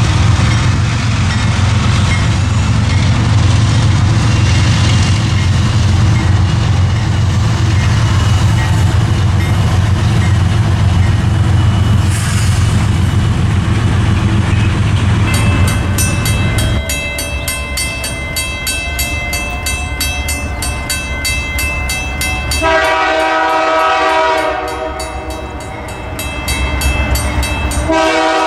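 A train passing close by: a locomotive's heavy diesel rumble for the first half, then railcar wheels clicking rapidly and regularly over the rail joints. A multi-note train horn sounds a chord about four-fifths of the way through and again at the very end.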